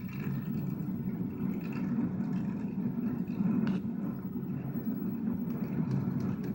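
Supercharged (blower) car engine idling nearby with a steady, rough, low rumble.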